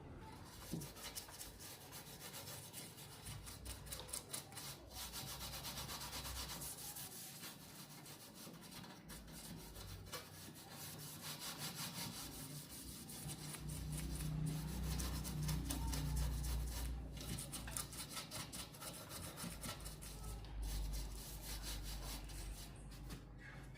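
Steady rubbing and scraping on a hard surface, many quick rasping strokes, with a low rumble swelling about midway.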